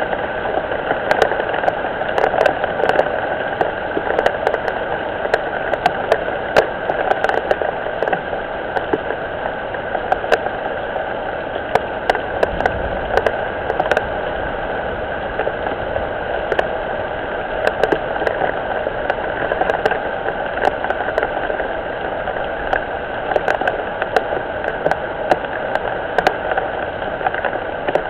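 Steady rain falling on a pond, with many sharp ticks of drops striking close by.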